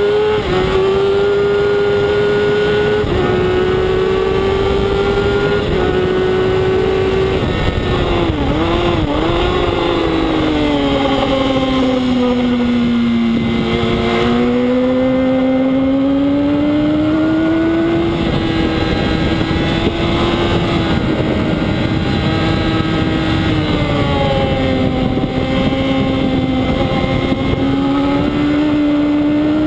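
Onboard sound of a racing Yamaha R1's inline-four engine running hard, with wind rush on the microphone. The engine pitch steps up and down with gear changes in the first few seconds and wavers in quick dips about eight seconds in. It then sinks to its lowest around thirteen seconds and climbs again as the bike accelerates out.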